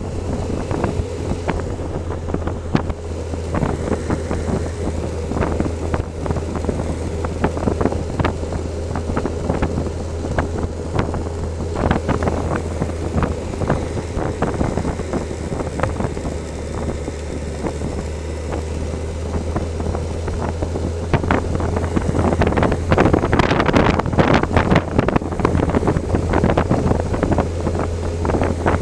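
Motorcycle engine running steadily under way, with wind rushing over the microphone and frequent knocks and rattles, which get louder and busier near the end.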